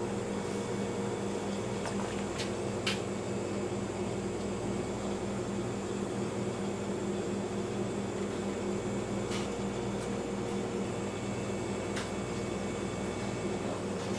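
Steady machine hum, like a fan or motor running, with a few light clicks.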